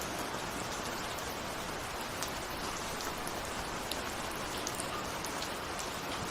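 Steady rain falling, with scattered individual raindrops ticking against a window pane over an even hiss.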